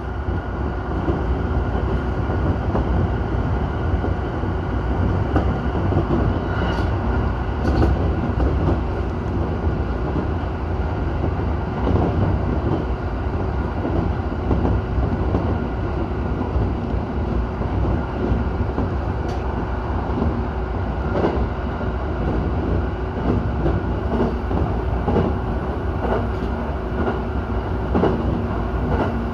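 JR Utsunomiya Line electric train running at speed: a steady rumble of wheels on rail, with scattered clicks from the track at irregular intervals.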